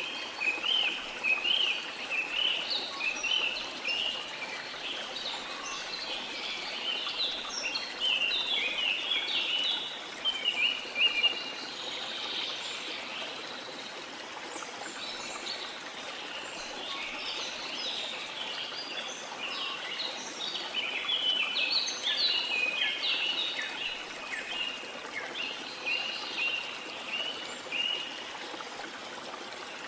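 Steady rush of falling water under a chorus of songbirds chirping in quick, busy runs of high notes, which thin out for a few seconds near the middle before picking up again.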